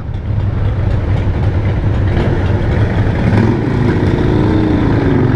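Steady low rumble of a motorcycle ride through traffic: the bike's engine running, heard from the rider's seat.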